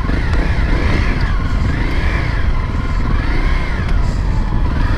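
Honda CRF250L's single-cylinder four-stroke engine being ridden, its revs rising and falling over and over, about every second and a half.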